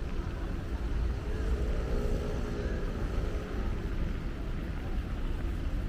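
Steady low rumble of city street traffic, with a passing vehicle's engine tone briefly rising and falling about two seconds in.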